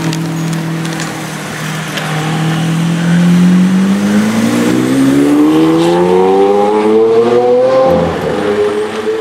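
Lamborghini Aventador LP700-4's 6.5-litre V12 accelerating away: a steady low drone for about two seconds, then the revs climb for about five seconds, with a gear change near the end.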